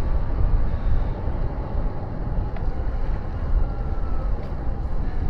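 Wind rushing over the microphone of a camera on a moving bicycle, a steady low rumble that gusts unevenly, with rolling noise underneath.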